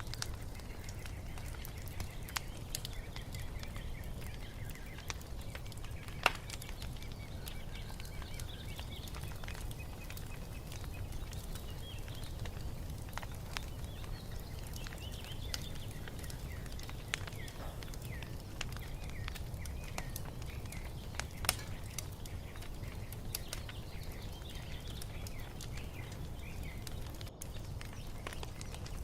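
Wood fire crackling with scattered sharp pops, two of them much louder about six seconds in and near twenty-one seconds, over a low steady rumble. Songbirds chirp and twitter throughout.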